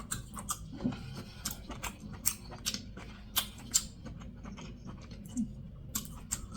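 Close-miked wet chewing and lip smacking: irregular sharp smacks and clicks from a mouth eating buttery seafood boil, a few each second.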